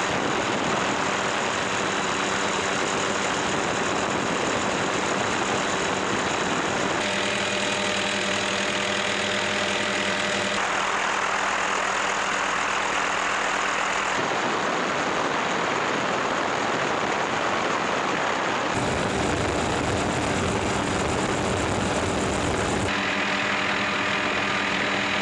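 Helicopter in flight: steady engine and rotor noise with a few steady tones in it. Its tone changes abruptly several times, at about 7, 11, 14, 19 and 23 seconds in.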